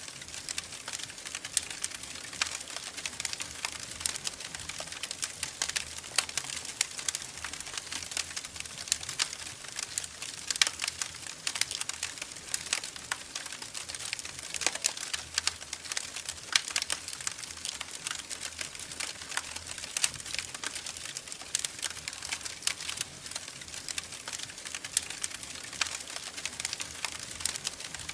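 Wood fire crackling in a fireplace: a steady stream of irregular small pops and snaps, with a few sharper cracks.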